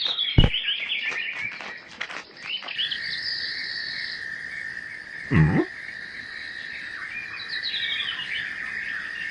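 Birds chirping in quick falling calls, joined from about three seconds in by a steady high insect-like tone. There is a sharp click near the start and a short knock about five seconds in.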